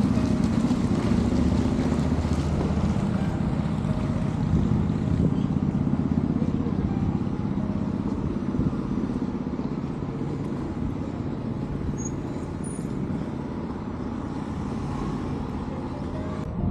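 A motor engine running steadily and slowly fading away.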